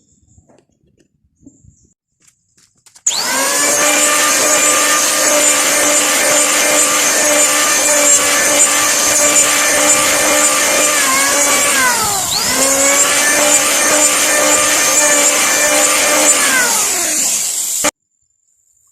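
Electric power tool working wood: a motor starts suddenly and runs at a steady high speed. About halfway through, the pitch drops briefly and comes back up. Near the end it sinks again before cutting off abruptly.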